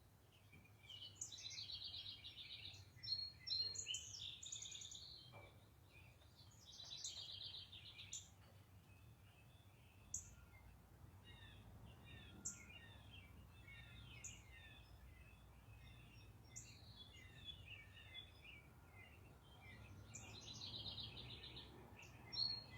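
Backyard songbirds singing faintly: several bouts of fast trilled song, with scattered short chirps and calls between them, over a steady low background hum.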